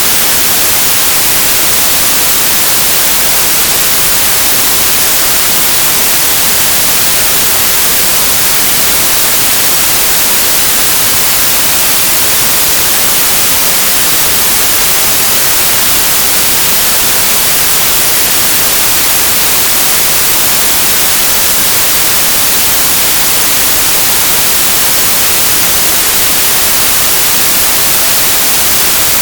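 Synthesized stereo white noise: a steady, even hiss, bright in the highs, with no changes or events.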